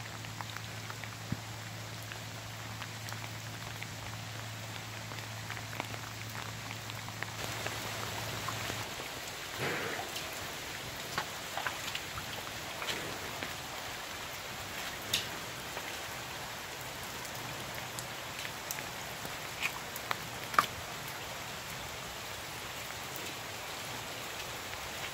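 Steady heavy rain falling, with scattered louder drops ticking and tapping on nearby surfaces. A low steady hum underneath stops about nine seconds in.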